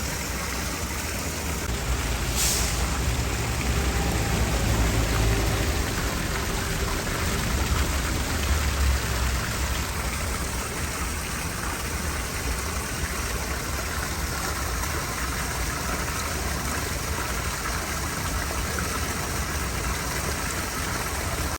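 Steady low engine rumble under a constant rushing hiss, with a brief sharp sound about two and a half seconds in.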